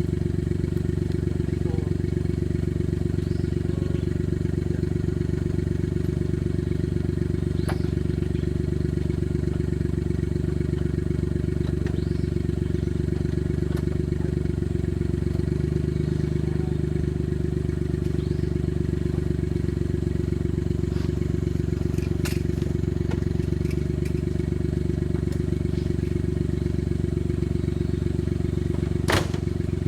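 Off-road vehicle's engine idling at a steady, unchanging speed, with a few sharp clicks, the loudest near the end.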